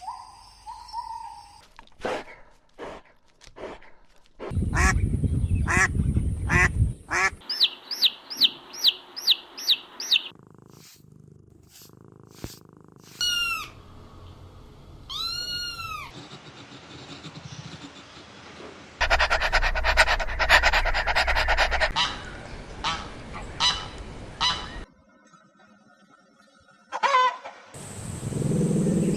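A string of short animal-call clips cut one after another, with repeated pitched calls and honking from waterfowl, separated by noisy stretches and brief gaps.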